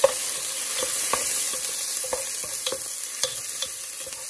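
Sliced onions and garlic sizzling in hot vegetable oil in a metal pot, with a steady hiss. A wooden spoon stirring them knocks against the pot several times, the loudest knock at the very start.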